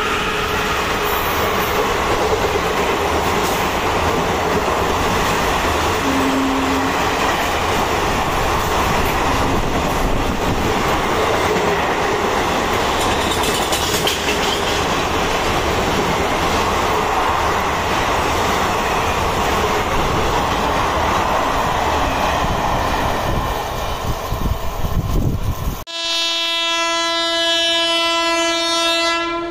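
An Indian Railways express of blue coaches running past at speed: a steady rush of wheels on rail with clickety-clack over the rail joints. Near the end, after a cut, a train horn sounds one long steady blast from an approaching train.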